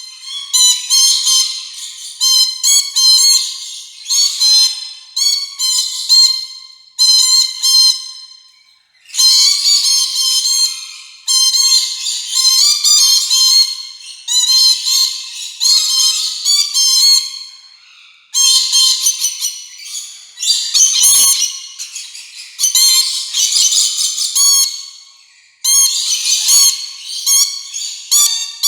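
Rainbow lorikeets chattering in rapid bursts of high-pitched whistles and chirps, each burst starting sharply and fading within about a second.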